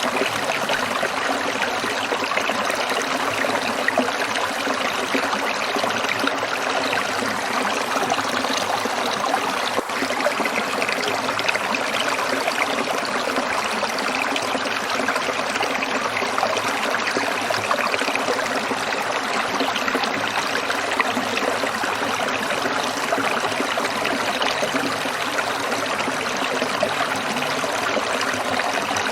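Small stream trickling and babbling over stones: a steady, even rush of running water with no pauses.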